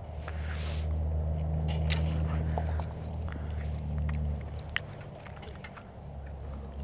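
Motorcycle engine running at a steady speed, growing louder for about two seconds, dropping away about four seconds in and coming back near the end, with scattered light clicks.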